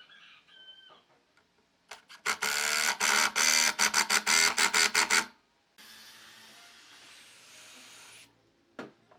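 Electric power tool motor running hard for about three seconds in quick on-off pulses, then a quieter steady whir for a couple of seconds before it stops.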